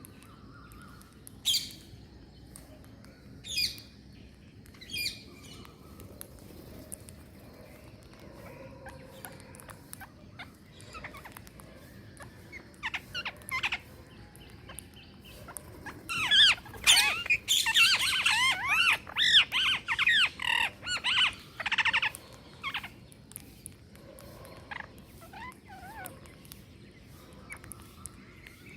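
Green parrots calling: three sharp single squawks about two seconds apart near the start, then a loud flurry of rapid calls lasting about six seconds in the second half.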